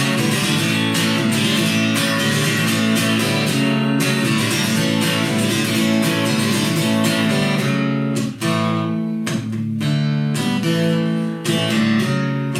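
Acoustic guitar strumming chords in an instrumental break between sung verses. About eight seconds in, the strumming thins out into fewer, separated strokes.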